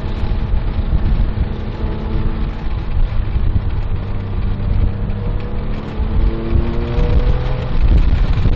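Porsche 997.1 GT3's 3.6-litre flat-six engine running on track, heard from inside the cabin over heavy low road and tyre rumble. Its pitch climbs from about six seconds in.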